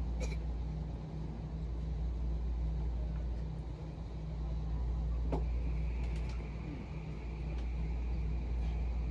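Vancouver SkyTrain car in motion, heard from inside: a steady low rumble of the train running along the guideway. A faint high whine comes in about six seconds in.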